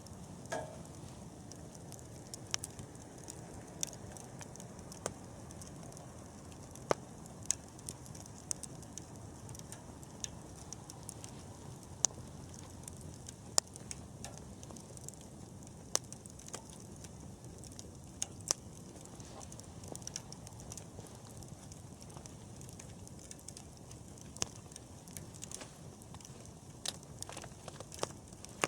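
Wood campfire burning: a steady low rush of flame with irregular sharp crackles and pops from the burning wood, a few of them much louder than the rest.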